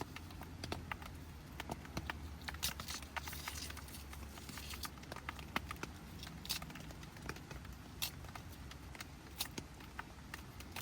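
Dry wood crackling and snapping in irregular sharp snaps, with a brief rustling hiss about three to five seconds in.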